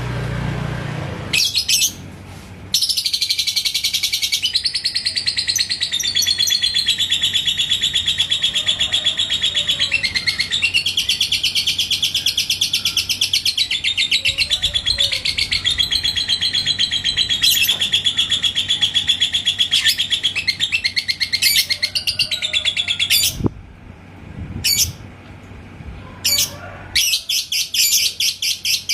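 Lovebird singing its ngekek: one long, rapid, unbroken high trill lasting about twenty seconds, with a few short chirps before it and several shorter trill bursts after it stops.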